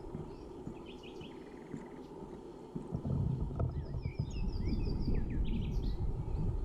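Small birds chirping, with a quick trill of about eight short notes midway, over a low rumbling noise that grows louder about three seconds in.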